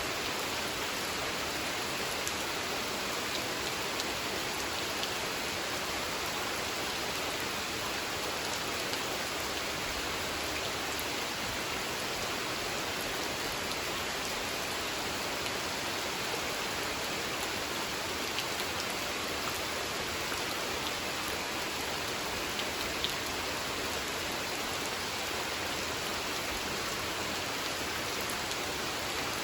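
Steady rain falling on and around a pond, an even hiss with a few separate drops ticking out now and then.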